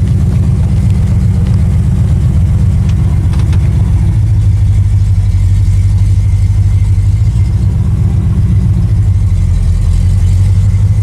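Engine and exhaust of a 1979 AMC AMX driving slowly, a steady low drone heard from inside the car. The engine note lifts slightly about four seconds in and settles back near the end.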